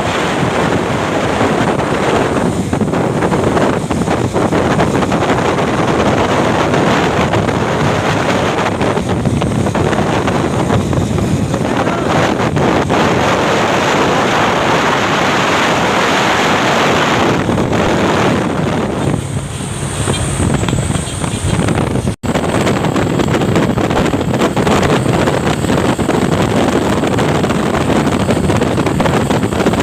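Heavy wind noise on the microphone over the steady running and road noise of a moving truck. The sound cuts out for a split second about two-thirds of the way in.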